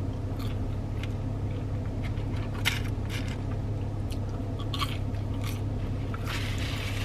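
Close-up chewing and crunching on a KFC breaded fried chicken sandwich, with several crisp crunches spread through, over a steady low hum.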